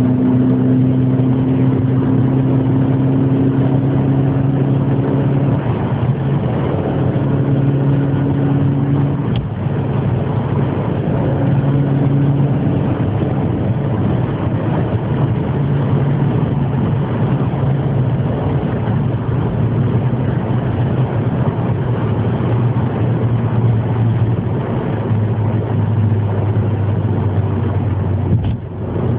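Formula racing car engine running loud at fairly steady revs, its pitch stepping slightly up and down a few times.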